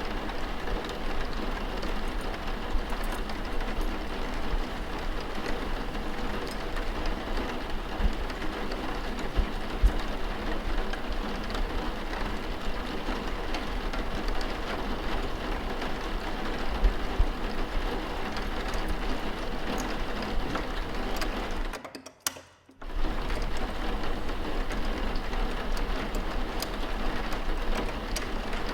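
Steady rain ambience, an even hiss of rain that cuts out almost to silence for about a second roughly two-thirds of the way through, then resumes.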